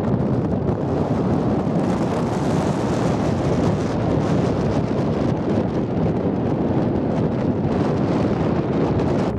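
Strong, gusty wind buffeting the microphone: a loud, steady low rumble.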